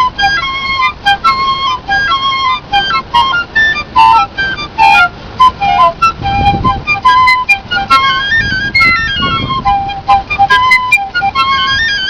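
Piccolo playing a quick, bright melody of short high notes with stepwise runs up and down. A low rumble rises under it around the middle.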